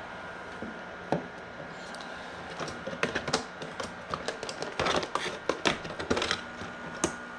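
Quick clicks, knocks and rattles of the plastic egg incubator being handled as it is opened to take out the egg turner. They are densest from about three to six seconds in, over a steady low hum.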